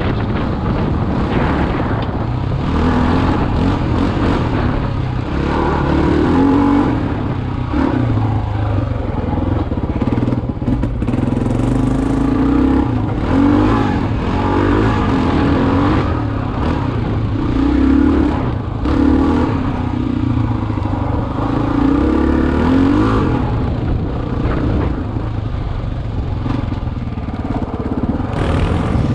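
Single-cylinder four-stroke dual-sport motorcycle engine running under load on a trail ride, its note rising and falling again and again as the throttle opens and closes.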